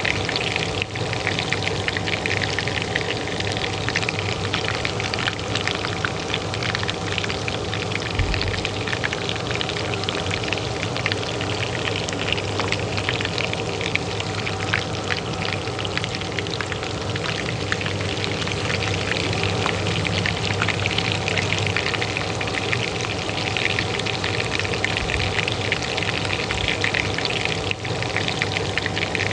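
Hot oil sizzling in a pan with a steady stream of fine crackles, over the steady hum of a kitchen range hood fan.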